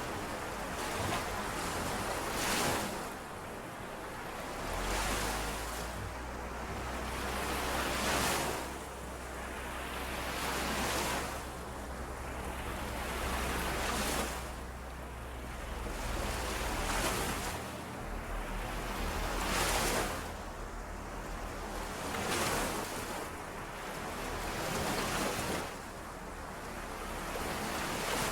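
Small lake waves washing in and out on the shore, one swell about every three seconds.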